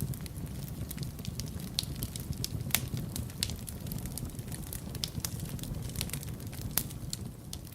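Wood fire in a fireplace crackling, with frequent irregular sharp pops over a steady low rumble of the flames; two pops, about a third and most of the way through, stand out as the loudest.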